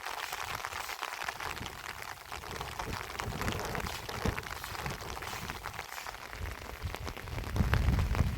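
Heavy rain falling, a steady hiss with many quick drop ticks; a low rumble swells up near the end.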